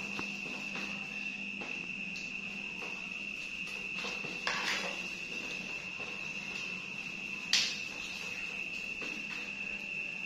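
A steady high-pitched tone, with a short clatter about four and a half seconds in and a sharper knock about seven and a half seconds in.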